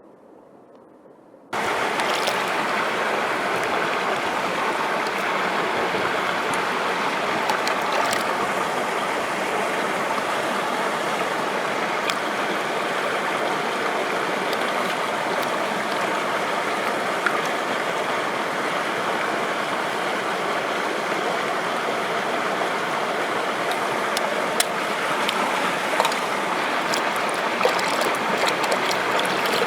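Mountain stream rushing over rocks, a steady loud wash of water that starts abruptly about a second and a half in. A few light ticks sound near the end.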